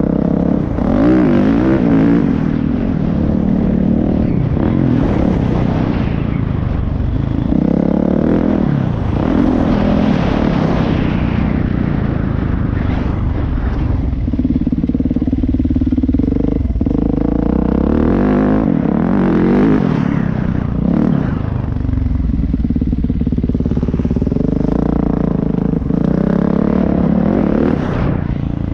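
A vehicle engine running loud and close, its pitch rising and falling over and over as it revs up and eases off.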